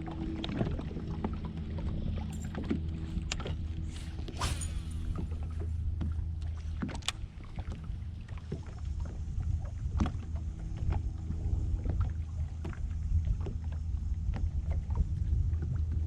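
Steady low hum of a bass boat's motor, with scattered light clicks and knocks over it.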